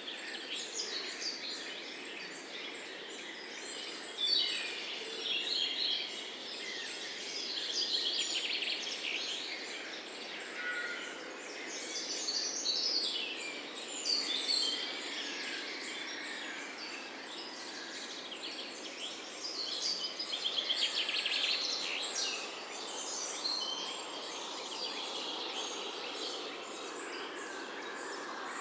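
Several songbirds chirping and singing at once, a dense run of short overlapping calls and trills, over a steady background hiss.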